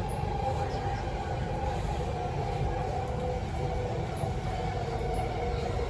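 Kawasaki–CRRC Qingdao Sifang C151C metro train's traction motors giving an echoey whine of several steady tones, over the low rumble of the wheels on the track, heard from inside the carriage.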